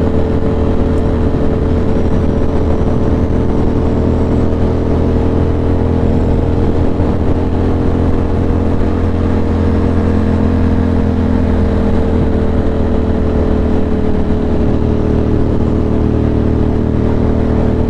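Ducati Monster 620's air-cooled V-twin engine running at a steady cruise, its pitch holding nearly level.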